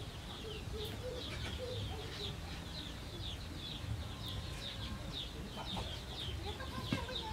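Birds chirping in the background: short, high, falling chirps repeating several times a second, over a steady low rumble.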